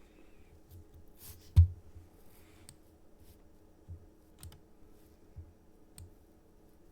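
A few scattered clicks from computer use, one much louder than the rest about a second and a half in, over a low steady hum.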